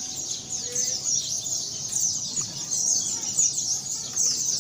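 Pleci (white-eye) songbirds singing together at a competition: a dense, continuous twitter of fast, high chirps from several birds at once.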